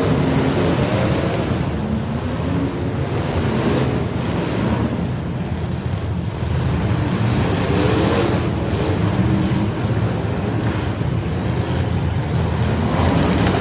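Demolition derby cars' engines running and revving together, their pitch wavering up and down.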